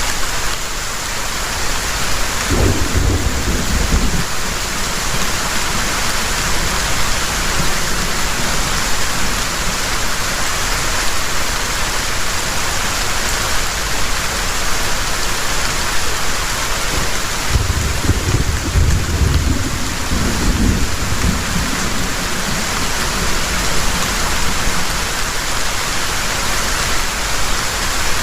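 Heavy rain falling steadily in a dense hiss, with two low rolls of thunder: a short one about three seconds in and a longer one a little past the middle.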